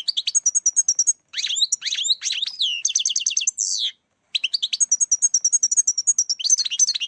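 European goldfinch singing: fast runs of twittering chirps and trills in three phrases, with short breaks about a second in and about four seconds in.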